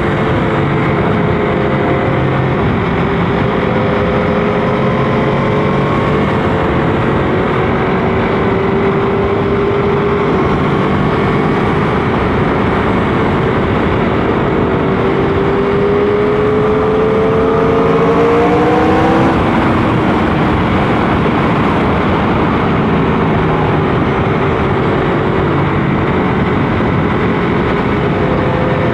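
Motorcycle engine under way, heard from on the bike over a steady rush of noise. Its pitch climbs as it accelerates, falls away sharply about two-thirds through as the revs drop, then runs steadier.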